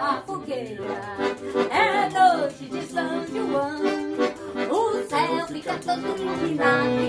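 Accordion-led festa junina music, a lively forró-style tune playing continuously.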